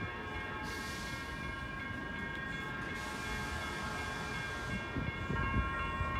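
A train out of view: a steady whine of several tones over a low rumble.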